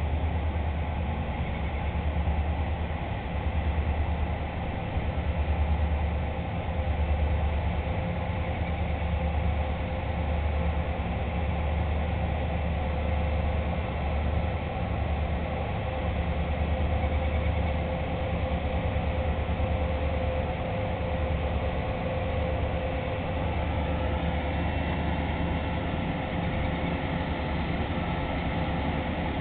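Towboat's diesel engines droning steadily while pushing barges, a deep rumble that swells and fades every second or two under a steady hum.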